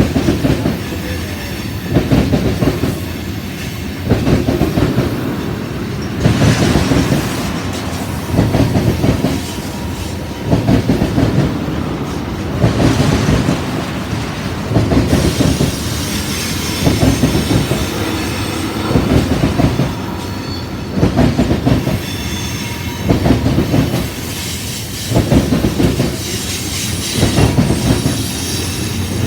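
Freight train cars rolling past on jointed track, the wheel sets clacking over the rail joints in loud bursts about every two seconds. A thin, high wheel squeal comes in near the end.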